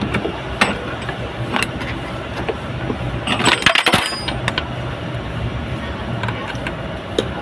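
An engine running steadily with a low hum, with scattered sharp metallic clicks and a brief rattling clatter of metal about three and a half seconds in.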